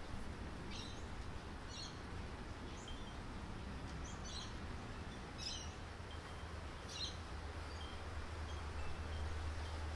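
Birds calling: short high chirps about once a second, with softer single short notes between them, over a steady low rumble.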